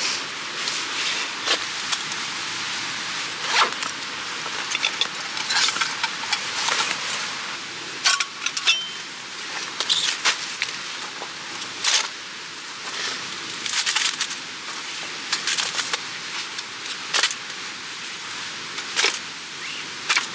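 Mountain stream rushing steadily, with irregular clicks and clatters of small camping gear being handled close by.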